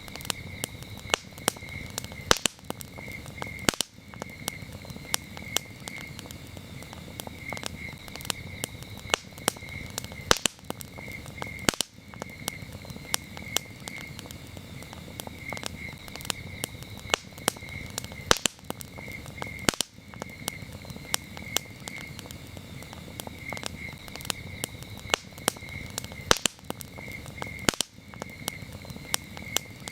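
Wood campfire crackling, with frequent sharp pops, several of them loud, over a low hiss of burning. Crickets chirp steadily in rapid pulses in the background.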